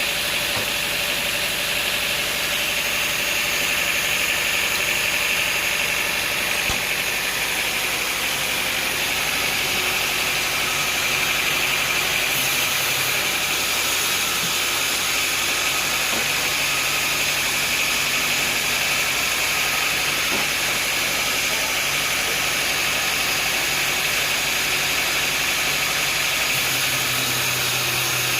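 Sawmill machinery running steadily: a continuous mechanical noise with a steady high whine, and a low hum that gets stronger near the end.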